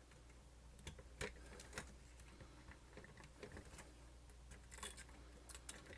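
Faint scattered clicks and taps of small plastic and metal parts being handled while wires are worked into a camcorder's battery compartment, a few sharp ones about a second in and another near the end, over near silence.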